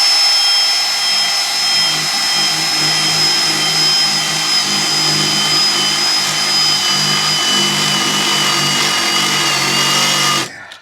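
Power drill running with a Diablo metal drill bit boring through a metal plate: a steady motor whine that dips slightly in pitch under load in the second half, then stops shortly before the end once the bit is through.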